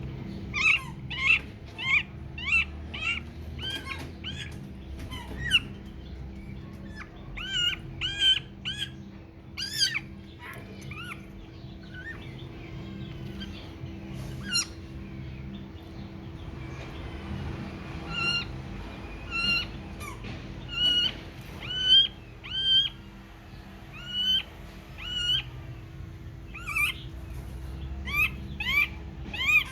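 A baby bird chirping over and over in short, arching calls, in runs of several with pauses between. A steady low hum runs underneath.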